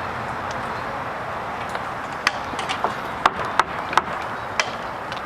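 Hockey sticks and puck clacking: several sharp hits from about two seconds in, over a steady hum of rink noise.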